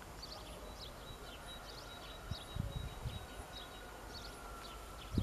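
Small birds chirping over and over, with short calls repeating every half second or so, over a quiet outdoor background. Irregular low rumbles come in about two seconds in.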